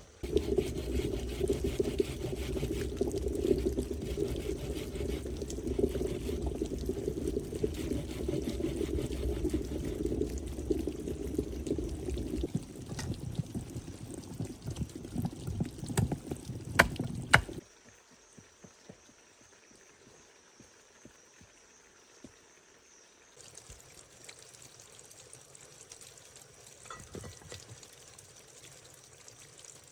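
Running water, loud and steady, that cuts off suddenly a little past halfway, with two sharp clicks just before it stops; after that only a faint background remains.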